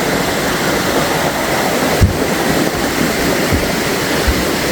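Guaxinduba river rushing steadily over its rocks, a strong current. There are a couple of brief low bumps about two seconds in and again near three and a half seconds.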